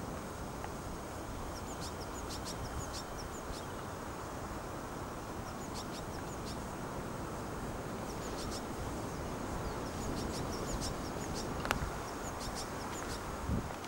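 Small songbirds chirping in quick clusters of short, high calls over a steady rumble of wind. Near the end there are a couple of brief knocks.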